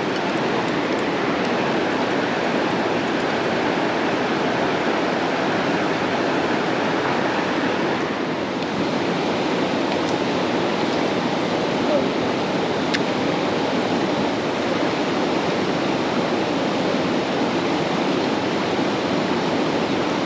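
Creek water rushing steadily over rapids, a continuous, even wash of sound.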